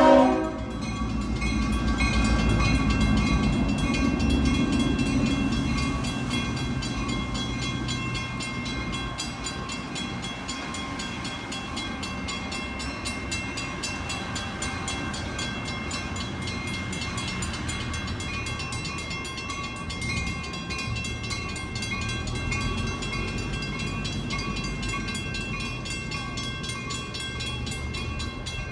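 Santa Fe CF-7 diesel locomotive's horn cutting off right at the start, then its engine rumbling past, heaviest in the first several seconds, followed by a string of passenger coaches rolling steadily over the road crossing. A grade-crossing warning bell rings steadily under the train noise.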